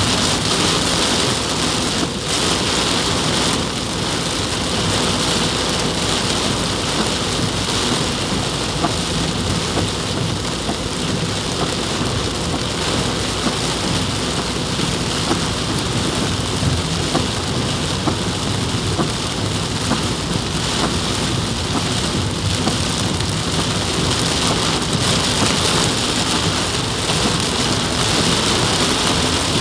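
Heavy rain pouring down steadily in a loud, even hiss.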